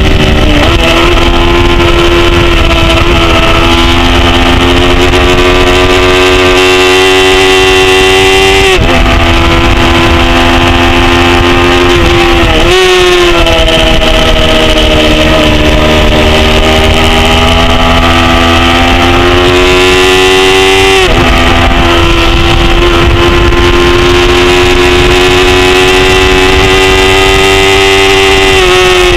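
A 250 cc production racing motorcycle engine running at high revs, heard from an onboard camera with wind rush on the microphone. The pitch climbs slowly and drops sharply at upshifts about 9 seconds and 21 seconds in. Around 13 seconds in the revs break briefly, then the engine pulls back up from lower revs.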